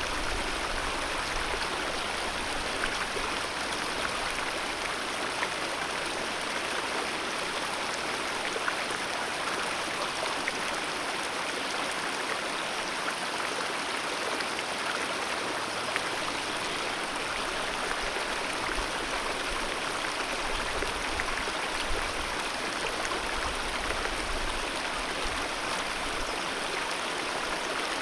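Wild alpine mountain river flowing steadily over its bed, an even, unbroken rush of water.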